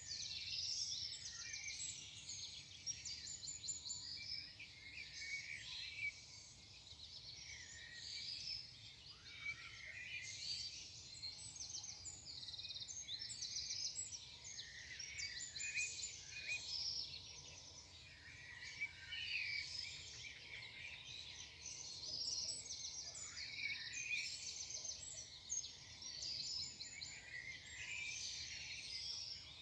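Morning chorus of several songbirds singing at once: dense, overlapping high-pitched chirps and trills that never pause.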